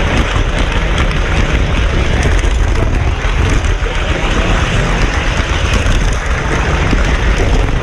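Model train running on its track: a steady rolling rumble and whir of the motor and wheels, with no breaks or clear rhythm.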